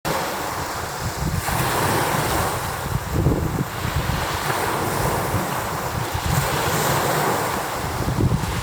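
Rough sea: waves pounding and washing on the shore, with strong wind gusting and buffeting the microphone in low rumbles.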